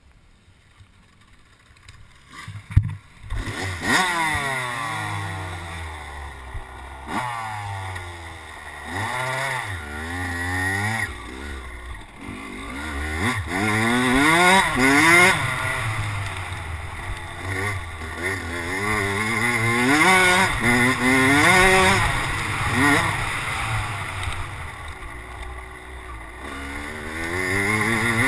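Kawasaki KX100 two-stroke dirt bike engine, revving up and falling back again and again as the bike is ridden. A few knocks come just before the engine sound starts, about three seconds in.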